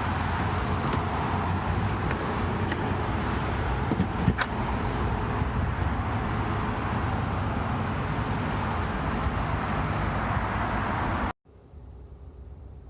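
Steady road and tyre noise with a low rumble inside the cabin of a moving Tesla electric car, with no engine sound. A brief click about four seconds in. Near the end it cuts off abruptly to a much quieter background.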